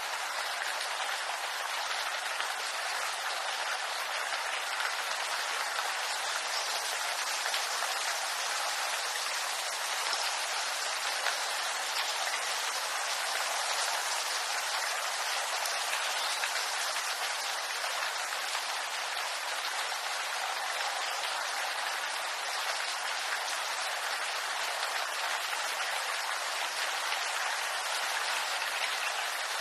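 Steady rain falling on bamboo leaves, a dense even patter of drops without a break.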